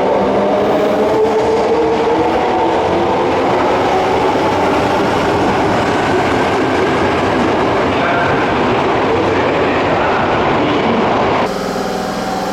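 Subway electric train running alongside the platform: a loud, steady rumble of wheels and running gear with a motor whine at first, cut off abruptly near the end.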